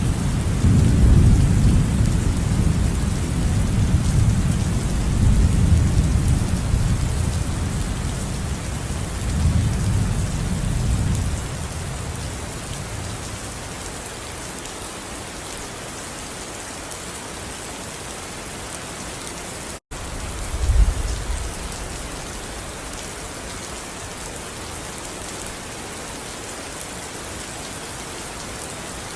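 Steady heavy rain with rolling thunder that rumbles through the first ten seconds or so and then dies away. The sound cuts out for an instant about two-thirds of the way in, and a short thunder rumble follows.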